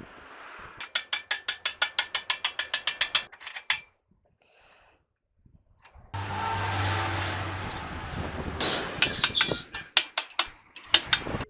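Ratchet wrench clicking rapidly, about eight clicks a second, for a couple of seconds as a bolt is turned. After a pause comes a steady mechanical whirring, then irregular metallic clanks and knocks.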